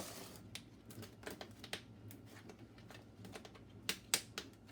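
Light scattered clicks and taps of a plastic Cool Whip tub being handled in the kitchen, with a couple of sharper clicks a little after four seconds in.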